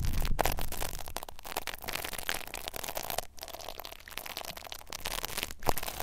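Close-up ASMR rubbing on a microphone's ears: a dense, crackly rustling with a few short breaks.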